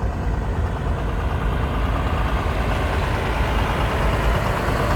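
Big old truck's engine running as it drives past, a steady low rumble that grows a little louder.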